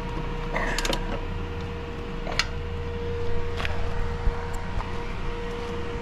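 Steady mechanical hum with a constant tone, and a few sharp metal clicks and knocks from hand work on a combine harvester.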